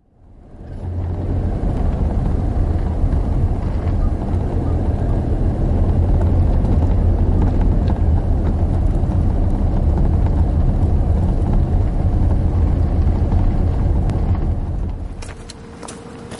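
Steady, loud low rumble of a passing or running vehicle, swelling in at the start and dropping away about fifteen seconds in.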